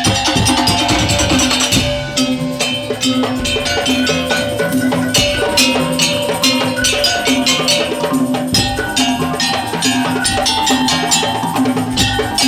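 Madurese daul (tong-tong) percussion music: an ensemble of struck bamboo slit drums, drums and clanking metal beats playing a fast, dense rhythm over a repeating pulsed note. The deep bass drops away about two seconds in and returns in stretches.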